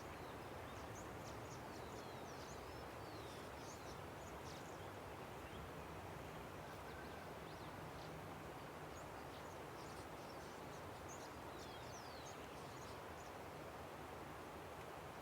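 Steady rush of a river with small birds chirping over it: many short, quick high chirps, most sweeping downward, scattered throughout.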